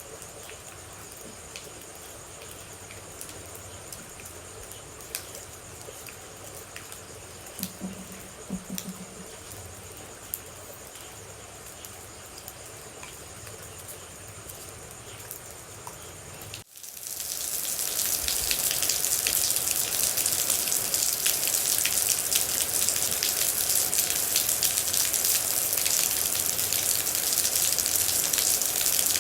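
Crickets chirping with scattered water drips, then, about seventeen seconds in, an abrupt cut to steady heavy rain that is much louder.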